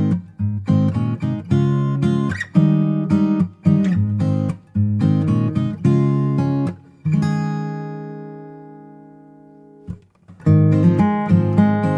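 Background music: strummed acoustic guitar chords in a steady rhythm, with one chord left ringing and fading about seven seconds in, a brief pause, then the strumming starts again.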